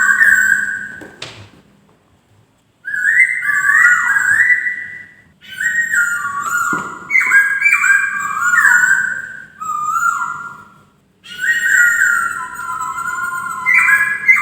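Poksay (laughingthrush) singing: loud, clear whistled phrases of stepping and sliding notes in several bouts, broken by short pauses, with a brief sharp click about a second in and another around the middle.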